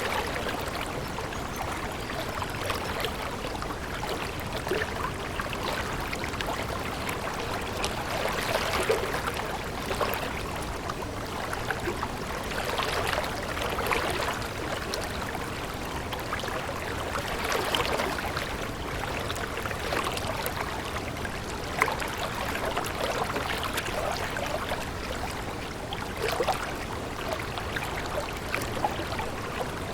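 Running water, a steady stream flow that swells gently every few seconds, with small splashes and trickles through it.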